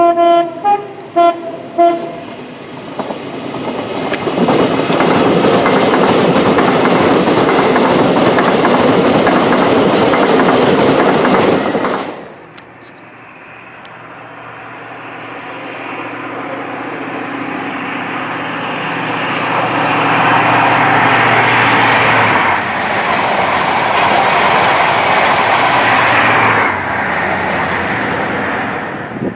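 A train horn sounded in about five short toots, then a train passing at speed. After an abrupt break, another train approaches and passes with a steady low hum.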